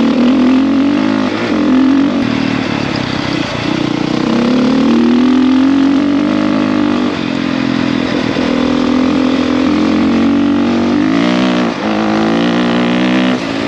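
450 dirt bike engine running as the bike rides along a trail, its pitch rising and falling with the throttle. Near the end the revs climb quickly.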